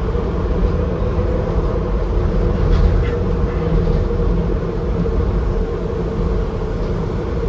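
Docklands Light Railway B92-stock train running between stations, heard from inside the car: a steady low rumble with a constant hum over it.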